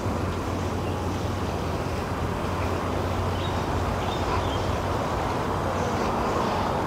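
Steady ambient noise with a low, even hum underneath.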